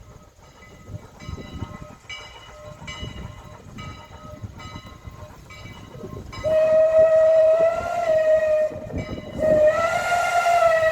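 Canadian National #89 steam locomotive's Pennsylvania banshee whistle. It sounds faintly in short toots at first, then from about six seconds in blows loud in two long blasts, each swelling slightly upward in pitch, over the rumble of the passing train.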